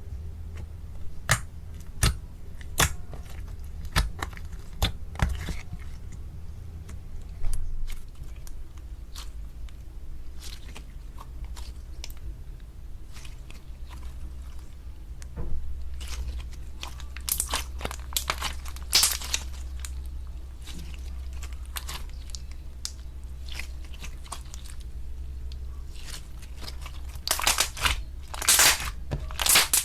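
Slime being squeezed and pressed by hand, giving crisp crunching crackles. Single cracks come every second or so at first, then denser runs of crunching about two-thirds of the way through and again near the end. A steady low hum sits underneath.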